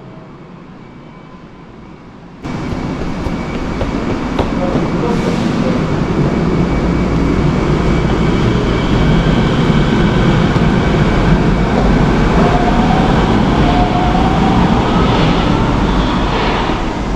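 Subway train pulling out of a metro station: a steady rumble that starts suddenly about two seconds in and slowly grows louder, with a faint motor whine rising in pitch near the end as it gathers speed.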